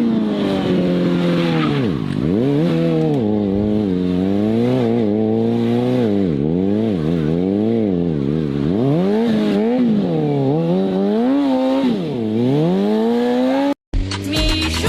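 Sport motorcycle engine revving up and down over and over, its pitch rising and falling every second or two. It cuts off suddenly near the end.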